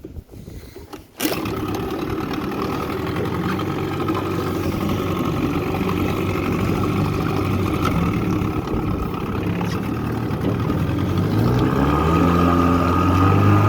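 1983 Johnson 7.5 hp two-stroke outboard motor running, coming in abruptly about a second in. Its pitch rises near the end as the throttle is opened and the boat speeds up.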